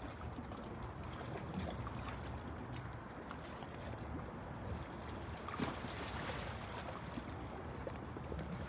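Steady low rumbling outdoor noise with a few faint clicks and knocks.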